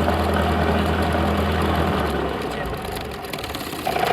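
Cessna 172's piston engine idling steadily, then shut down about two seconds in: the steady hum cuts off and the propeller runs down, leaving a quieter rattle.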